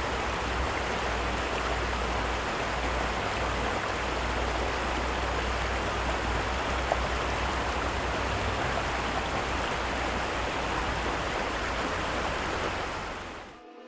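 Heavy rain falling steadily, an even hiss over a low rumble, fading out just before the end.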